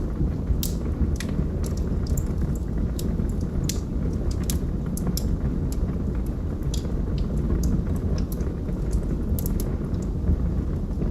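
Log fire crackling: irregular sharp pops and snaps, several a second, over a steady low rumble.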